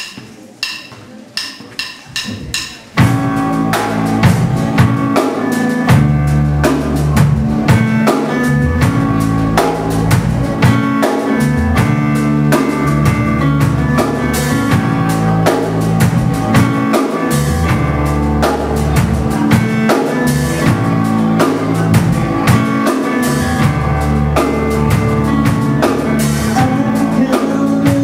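Rock band instrumental intro: a few evenly spaced light clicks, then about three seconds in the full band comes in at once with drum kit, bass and chords, and keeps a steady beat.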